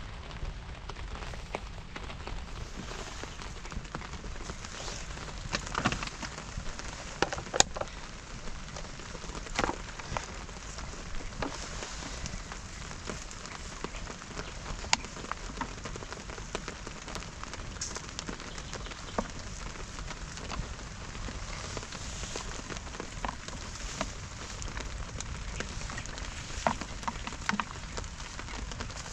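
Steady rain falling, with scattered sharp drop hits every few seconds.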